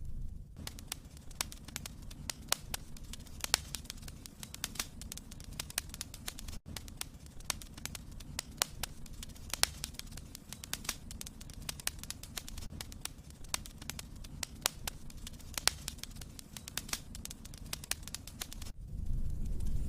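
Wood fire in a fireplace crackling, with frequent sharp, irregular pops and snaps over a low rumble of the flames. Near the end it gives way to a louder, steady hiss.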